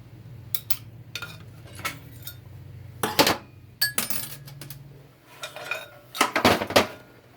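Steel automatic-transmission parts clinking and clanking against each other and the bench as they are handled, in a series of sharp separate knocks. A low steady hum runs underneath and stops about five seconds in.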